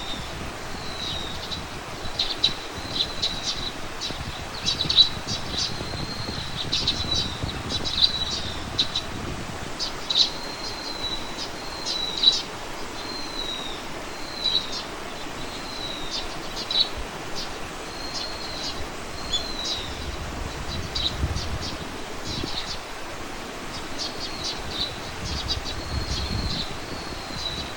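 Small birds chirping, giving short high chirps and slurred whistles every second or two over a steady background hiss.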